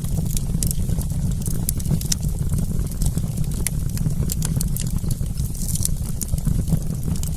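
Wood campfire crackling: frequent sharp pops and snaps, irregular, over a steady low rumble.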